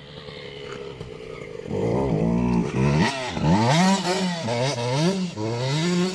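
KTM 85 SX two-stroke motocross engine, faint and steady at first, then from about two seconds in revving up and down repeatedly as the throttle is worked.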